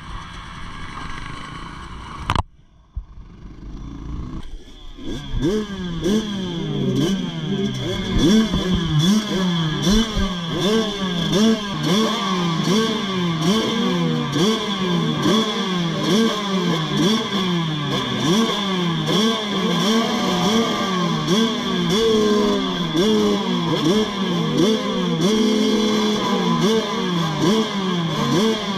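Several motocross bikes racing, their engines revving up and dropping again and again as they shift and go through the track. There is a sudden break a couple of seconds in, after which the engines build back up.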